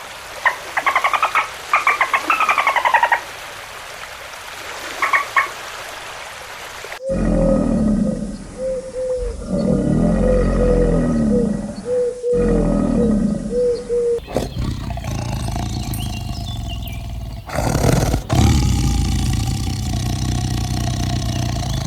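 A run of animal calls cut one after another: quick high chirping calls in the first few seconds, then low roaring calls in three long swells, followed by another steady animal sound.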